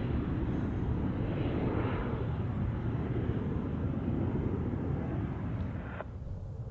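Jet airliner engine noise: a steady rumble and roar. About six seconds in it drops off suddenly, leaving a quieter low rumble.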